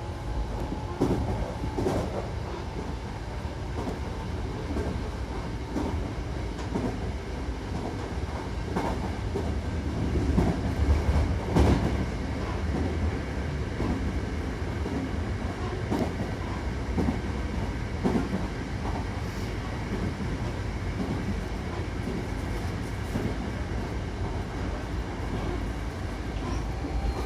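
Hankyu Takarazuka Line electric train running between stations: a steady low rumble with irregular clicks of the wheels over the rails.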